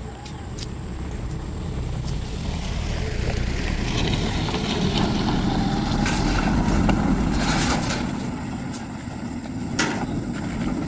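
A heavy vehicle's engine running with a low rumble that grows louder to a peak about halfway through and then eases off, with a few sharp clicks and clanks.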